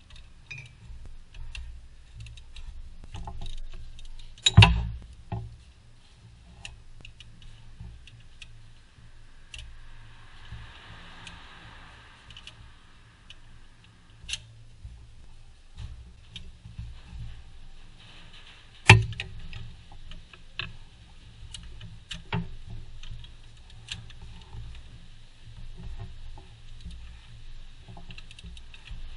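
Hand tools clicking and clinking on metal during engine-bay work on a belt tensioner and idler pulley, with two loud sharp metallic knocks, one about four seconds in and one about two-thirds of the way through.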